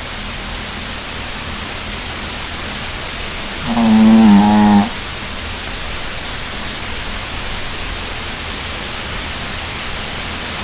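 A sleeping dog snoring: one pitched, drawn-out snore about a second long, about four seconds in, over a steady hiss.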